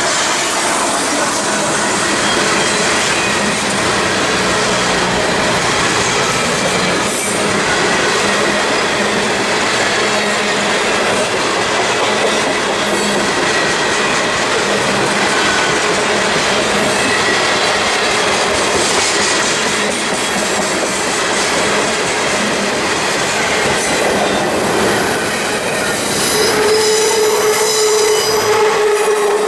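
A train rolling past at close range: a loud, steady rumble and clatter of cars and wheels on the rails. About three-quarters of the way in, a steady high-pitched wheel squeal sets in.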